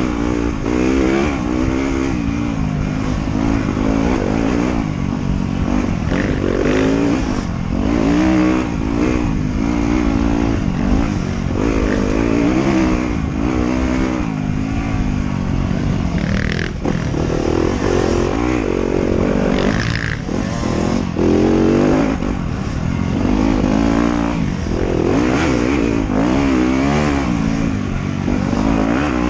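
Motorcycle engine being ridden along a dirt trail, its pitch rising and falling again and again as the throttle is opened and closed and the gears are worked.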